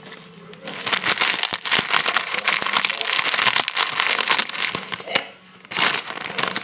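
Close-up crunching of crispy fried noodle snack (mie kremes) being chewed, a dense crackling that starts about a second in, breaks off near the end and briefly resumes.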